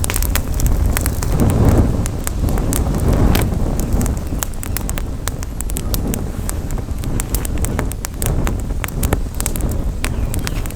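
Campfire crackling, with many sharp irregular pops and snaps over a steady low rumble of wind on the microphone.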